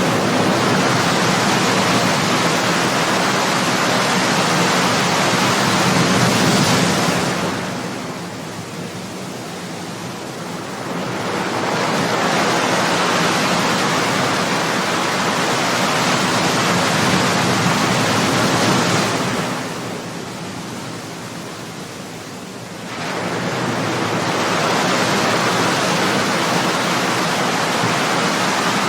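Ocean surf: waves breaking and washing up the shore in a steady rush that eases off twice, about twelve seconds apart, before the next wave surges in.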